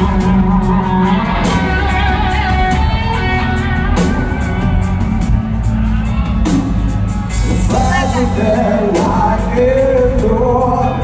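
Live rock band playing loudly in a large hall, with electric guitars, drums with regular cymbal hits, and singing.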